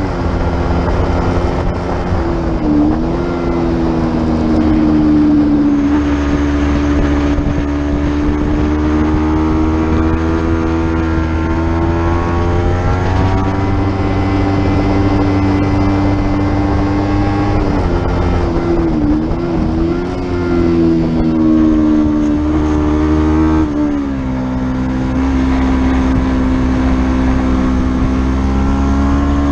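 Racing motorcycle engine held at high revs, its pitch dipping briefly and recovering a few times, around three seconds in, twice near the middle and once more later on.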